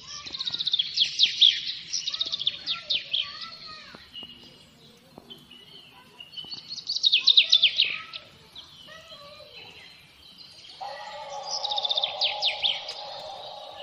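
Birdsong: a songbird sings a quick trill of descending chirps three times, with softer chirps from other birds in between. A steadier, lower sound joins near the end.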